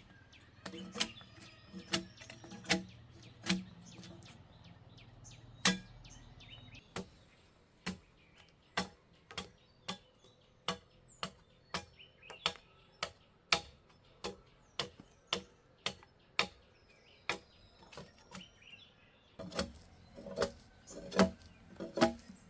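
Hand-tool strikes on material, sharp cracks repeating at about one a second, duller and heavier for the first few seconds and coming faster near the end. Birds chirp faintly.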